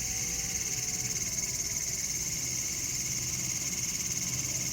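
Cicadas singing in a continuous, steady high-pitched drone.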